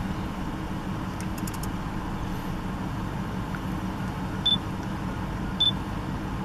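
Steady low hum of an idling car engine, with two short high chirps in the second half.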